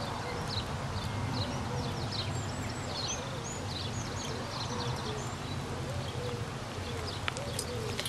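Birds chirping over and over, short high chirps mixed with lower curved calls, over a steady rushing background noise.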